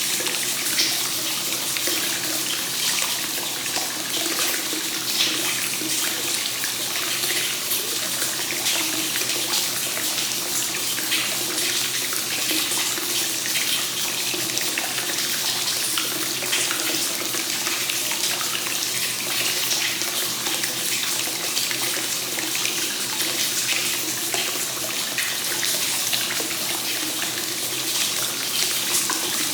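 Hot spring water flowing continuously into a bath: a steady, unbroken splashing of pouring water.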